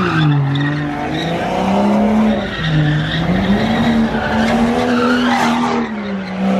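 A car engine held at high revs, its pitch swinging up and down as the throttle is worked, over the hiss and squeal of spinning tyres, as in a burnout or donut.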